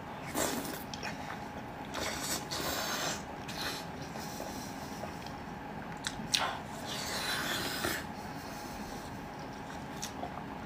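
Close-miked eating sounds: wet chewing and mouth clicks on soft spicy food, in scattered bursts with quieter gaps between.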